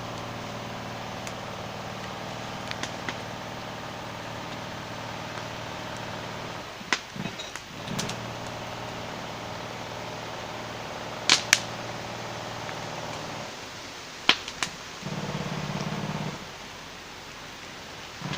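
Bonfire crackling: sharp, loud pops and snaps, some in quick pairs, over a steady low hum.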